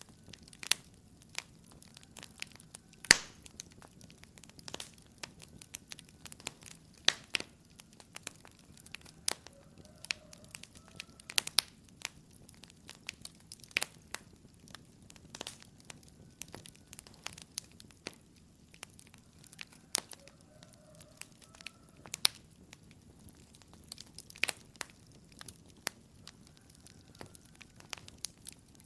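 Wood fire crackling in a fireplace: irregular sharp pops and snaps over a low steady rush of the flames, the loudest pop about three seconds in.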